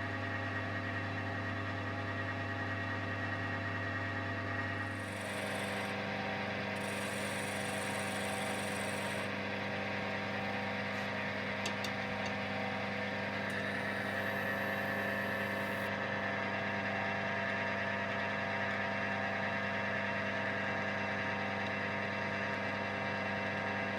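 Electric wood lathe running steadily while beech dowels are turned, a constant motor hum whose pitch shifts about five seconds in.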